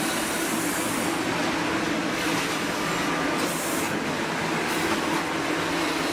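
Steady industrial noise of sawmill board-handling machinery running: a continuous rumbling hiss over a steady hum, with brighter hissing surges every second or two.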